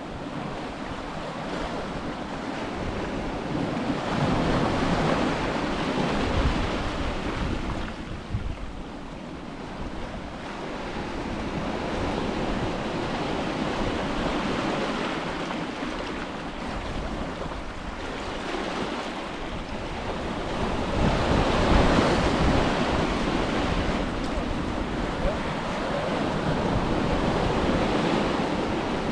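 Ocean waves breaking and washing up the beach in slow surges, several swells rising and falling, with wind buffeting the microphone.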